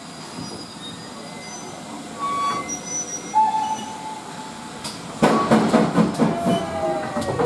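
Steam-hauled train of vintage wooden carriages starting to move off. From about five seconds in, the wheels squeal with several shrill tones and the carriages clank and knock as the train gets under way.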